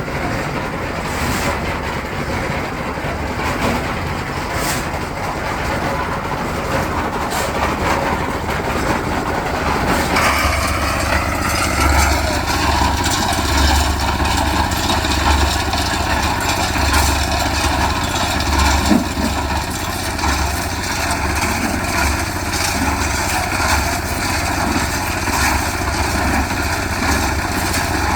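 Small engine running steadily with a low throbbing. About ten seconds in, a steady higher whine joins it.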